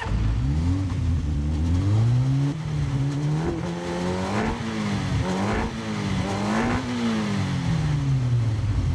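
Motorcycle engine pulling hard, its pitch climbing, dipping and climbing again several times, then falling away near the end.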